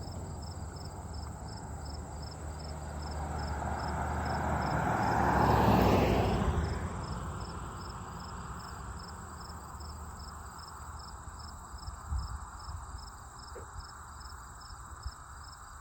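Crickets chirping steadily in a regular pulse over a low steady rumble. About four seconds in, a passing vehicle rises to a peak and fades away.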